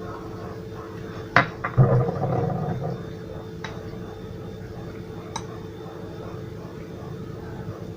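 Spoon stirring tahini sauce in a bowl, clinking against it: two knocks about a second and a half in, a short stretch of stirring, then a couple of lighter clinks.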